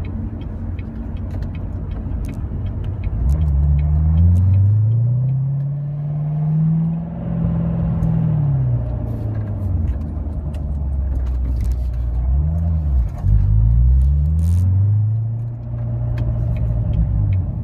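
Car engine heard from inside the cabin while driving. The revs climb for a few seconds and then drop, dip and climb again about two-thirds of the way through, then settle to a steady pull.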